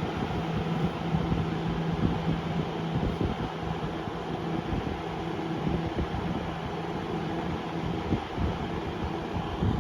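Vintage Sears Kenmore box fan (model 758.80840) running steadily on high speed: an even rush of moving air with a faint steady hum from the motor.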